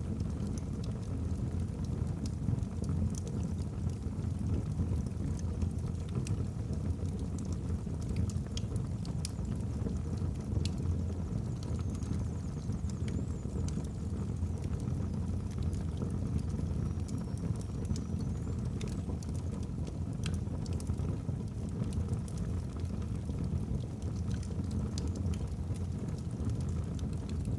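Wood fire burning in a fireplace: a steady low rumble of flames with scattered sharp crackles and pops from the burning logs, and a faint thin whistle a couple of times in the middle.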